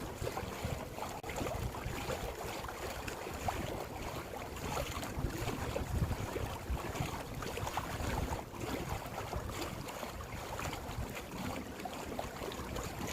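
Steady rush of water along a small boat's hull under way, with wind buffeting the microphone in irregular low gusts.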